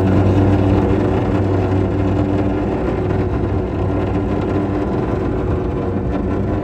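Cruiser's engine running steadily at constant speed, a low hum with an even drone of overtones over a haze of noise.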